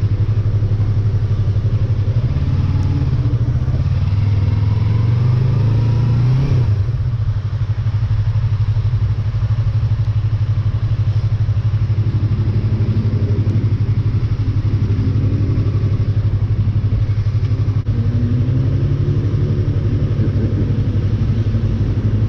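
Motorcycle engine idling steadily, with one brief rev that rises over a couple of seconds and drops back about six or seven seconds in.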